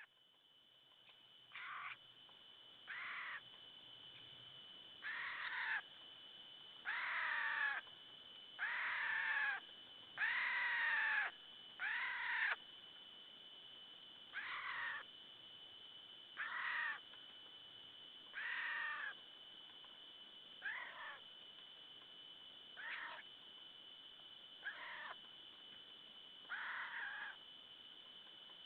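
An animal's mewing, crying call repeated about fourteen times, roughly every two seconds, loudest in the first half, over a steady high-pitched tone.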